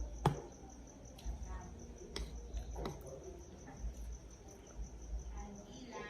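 Crickets chirping in a steady, evenly pulsing high trill. A sharp click comes about a quarter second in, with a few fainter clicks and low rumbles later.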